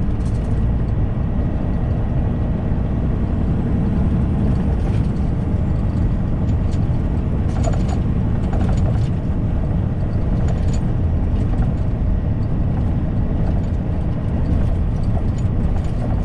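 Semi truck driving, heard from inside the cab: a steady low engine drone mixed with road and tyre noise, with a few faint rattles or clicks in the middle.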